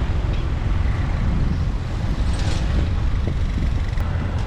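City road traffic heard from a moving motorbike: a steady low rumble of engines and road noise, with a brief hiss about halfway through.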